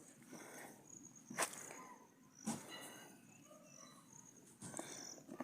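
Insects chirping in an on-and-off high tone, over faint rustling and movement, with two sharp clicks about a second and a half and two and a half seconds in.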